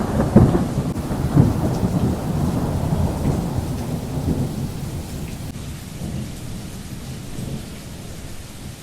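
Low rumbling noise with a faint hiss, slowly fading away.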